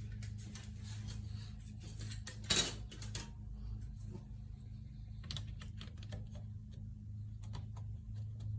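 Scattered light clicks and clatter of small objects being handled, over a steady low hum, with one louder rustling burst about two and a half seconds in.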